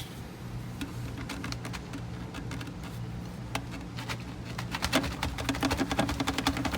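Rapid, irregular clicking and ticking that grows denser and louder from about five seconds in, over a steady low hum.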